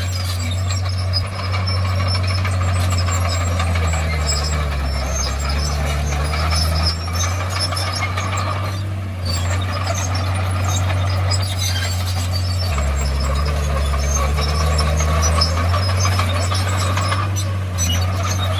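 Komatsu crawler bulldozer working: its diesel engine drones steadily, dropping lower and wavering twice, about four and thirteen seconds in, as it takes load, with a constant clatter and squeak from the running gear above it.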